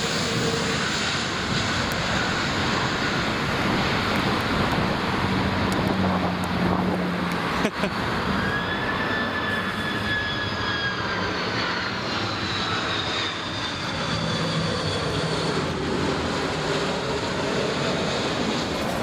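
Jet airliner's engines roaring as it passes, with a whine that falls in pitch from about halfway through. A single sharp click comes just before the whine drops.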